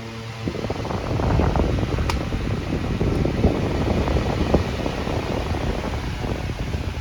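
Homestar 10-inch high-velocity stand fan running: a rushing whoosh of air with a low rumble, growing louder over the first second or so and easing slightly near the end.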